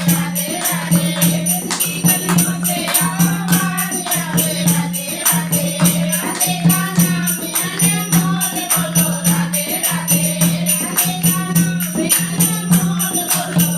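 Hindi devotional bhajan: voices singing a melody over a fast, steady beat of dholak drum and jingling percussion.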